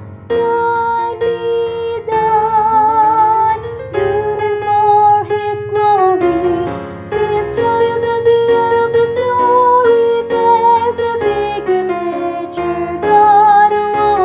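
A mezzo-soprano woman singing her part of a hymn arrangement in long held notes with vibrato, over a piano accompaniment.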